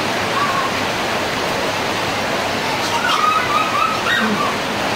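Rain falling: a steady, loud hiss, with faint voices in the background about three to four seconds in.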